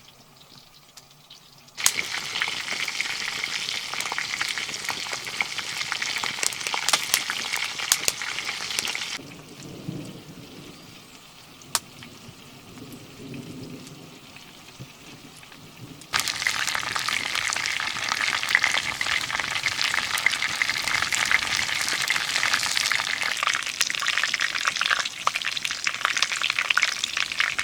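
Chicken drumsticks sizzling and spitting as they fry. The sizzling starts suddenly about two seconds in, falls to a faint hiss for several seconds in the middle, then comes back loud.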